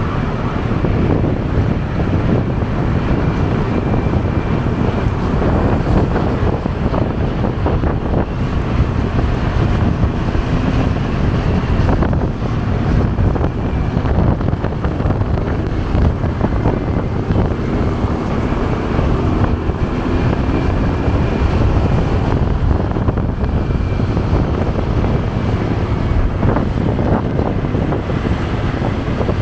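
Wind rushing over the microphone of a moving motorcycle, a steady low rumble, with the motorcycle's engine and surrounding road traffic running underneath.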